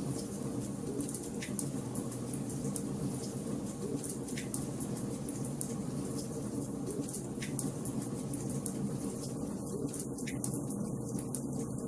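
Wood fire burning in a fireplace: a steady low rush of flames with quick small crackles, and a louder pop about every three seconds.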